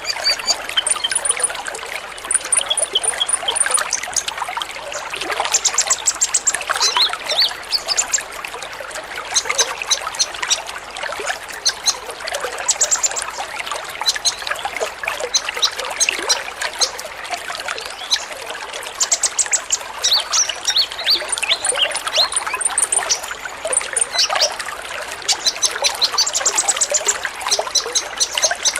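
Many kolibri ninja sunbirds calling together: dense, overlapping high chirps and fast trilled runs, over a steady trickling, water-like hiss.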